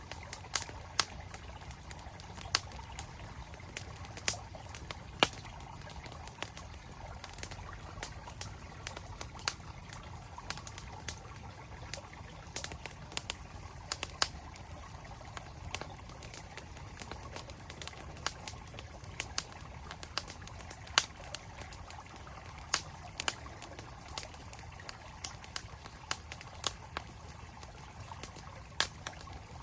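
Campfire crackling with sharp, irregular pops, roughly one or two a second, over the steady rush of a flowing mountain stream.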